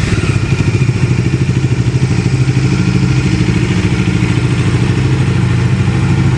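Bajaj Dominar 250's single-cylinder engine idling steadily through its exhaust, with a fast, even pulse.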